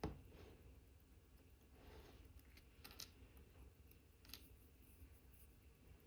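Faint clicks and taps of small metal watchmaker's tools working on a watch movement during reassembly. There is a sharper click right at the start and single clicks about three and four seconds in.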